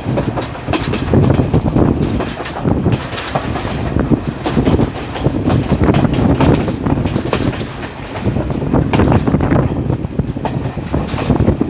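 Local passenger train running, heard from aboard: a continuous loud rumble with repeated clacking of the wheels over the rail joints.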